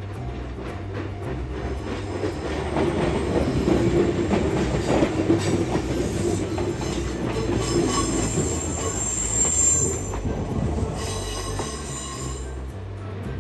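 Kintetsu Minami-Osaka Line electric train rolling through a sharp curve, its wheels rumbling and clattering over the rails. A high-pitched wheel squeal from the tight curve comes in during the second half and cuts off sharply near the end.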